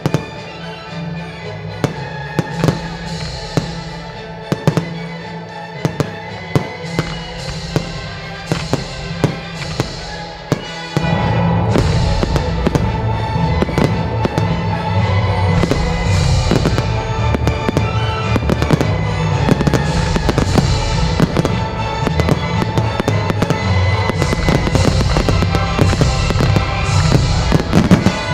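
Display fireworks going off in a rapid, irregular series of sharp bangs and crackles, over the show's music soundtrack. The music gets louder about eleven seconds in, with the bursts continuing on top.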